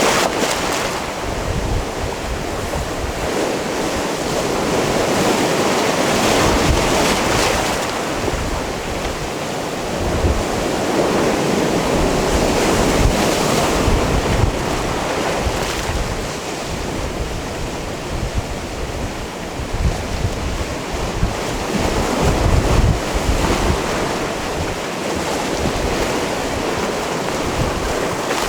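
Sea waves washing in and out against a rocky shore, the surf swelling and easing every few seconds, with wind buffeting the microphone in low gusts.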